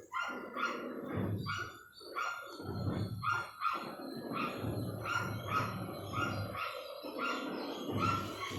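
A dog barking repeatedly at a steady pace, about two short barks a second.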